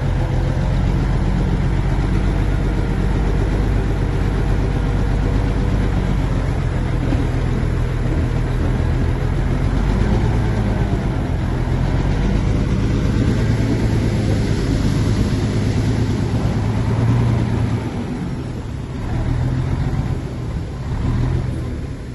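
Heavy diesel engine of a Shantui bulldozer running steadily under load, its pitch wavering a little; in the last few seconds it eases off and the level falls and rises.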